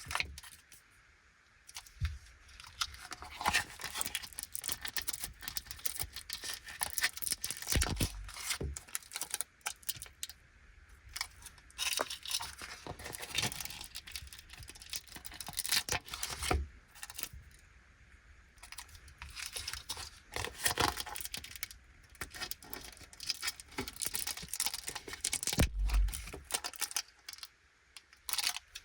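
Plastic packaging of Anpanman grape gummies being handled and torn open: irregular crinkling, rustling and small clicks, with a few sharper knocks now and then.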